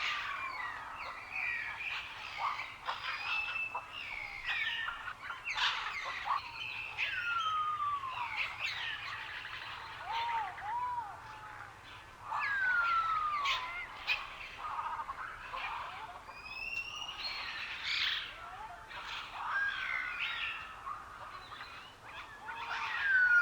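Several wild birds singing at once in a forest, with overlapping chirps and trills and a clear whistle that slides downward, repeated every few seconds.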